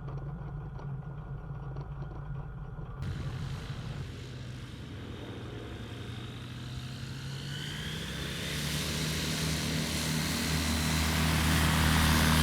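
Rotax engine and propeller of a light SuperSTOL aircraft running steadily at low power, then building up over the last few seconds with a rising pitch as power is added.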